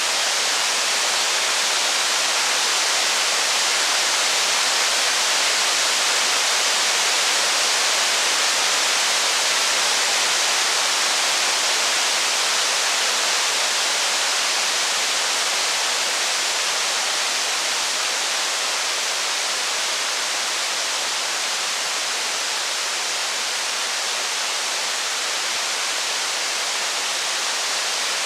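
Steady rain falling, an even unbroken hiss with no thunder or fire crackle standing out.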